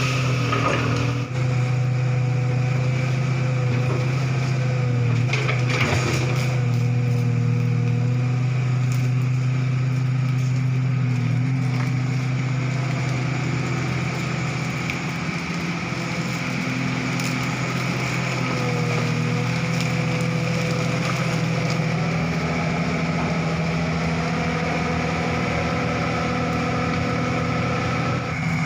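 Komatsu PC200-5 excavator's diesel engine running steadily under load, with a wavering hydraulic whine, while wood crunches and cracks as an oil palm tree is pushed over, with sharp cracks about one and six seconds in.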